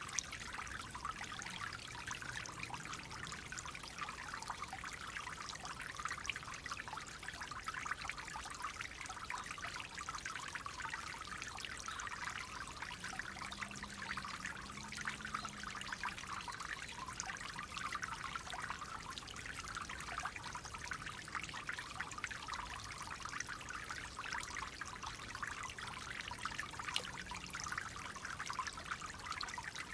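Clear water flowing and trickling steadily in a small stream, an even rushing hiss without pauses.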